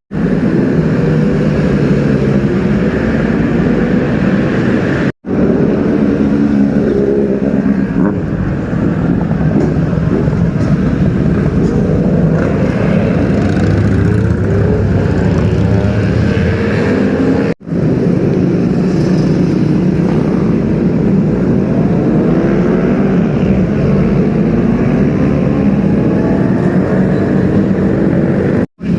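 Superbike engines running and revving, their pitch rising and falling as bikes rev and move off. The sound is loud throughout and breaks off briefly three times where separate clips are joined.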